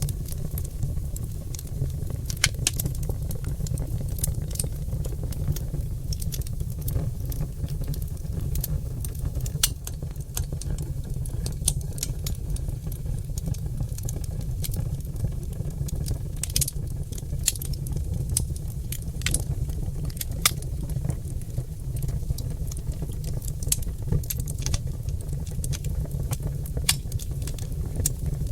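Oak logs burning in a fireplace, crackling and popping in frequent, irregular sharp snaps over a steady low rumble.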